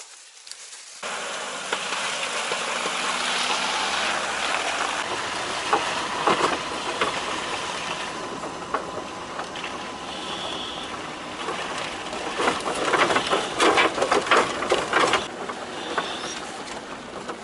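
Lada Niva driving on a rough dirt track, loaded with dug-up scrap metal: a steady rumble of engine and tyres with clattering and knocking from the load and body over the bumps, starting abruptly about a second in, and the knocks heaviest in a cluster about two-thirds of the way through.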